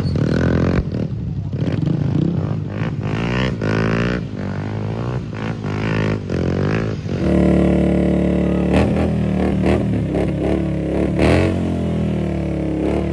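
Motorcycle engines running and revving, their pitch rising and falling. About halfway through, a steady droning engine note takes over.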